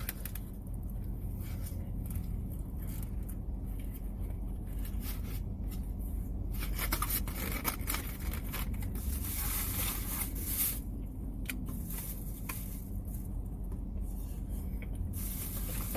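Eating and drinking sounds: small mouth clicks of chewing, and a long hissy stretch of sipping from a drink that is nearly finished, over a low steady hum.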